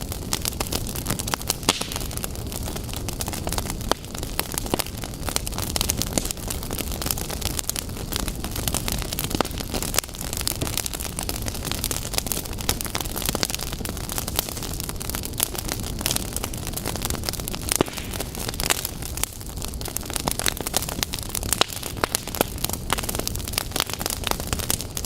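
Wood fire burning in a fireplace: a steady low rumble and hiss of the flames with constant dense crackling and frequent sharp pops.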